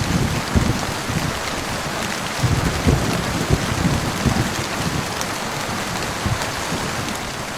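Heavy rain falling steadily, a dense even hiss, with irregular low thumps and rumbles underneath from heavy drops and distant thunder.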